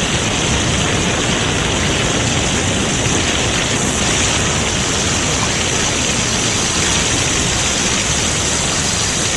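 Steady rushing hiss of water jets spraying from fire hoses.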